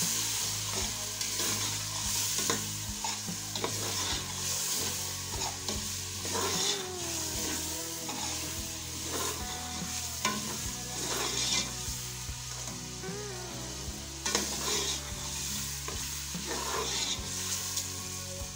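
Tomato and spice masala sizzling in hot oil in an aluminium pot, stirred with a metal spoon that scrapes and knocks against the pot again and again. The spices are being fried down (bhuna) in the oil.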